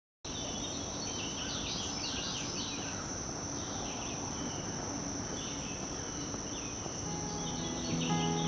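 Natural outdoor ambience: a steady, unbroken high-pitched insect trill, with scattered short bird chirps over it. Gentle music fades in near the end.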